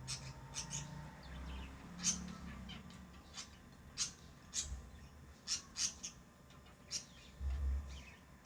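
Pet lovebirds calling in short, sharp, high chirps, about a dozen scattered irregularly, with a brief low rumble near the end.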